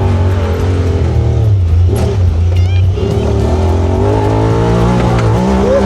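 Side-by-side UTV engine running under way on a trail, its pitch rising steadily a few seconds in as it accelerates.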